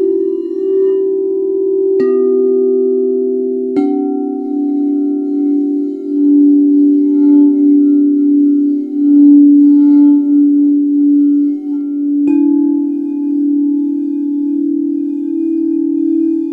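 Singing bowls ringing together with several sustained low tones that waver and swell. Bowls are struck three times, about two seconds in, again near four seconds and about twelve seconds in, and each strike brings in a new set of ringing tones.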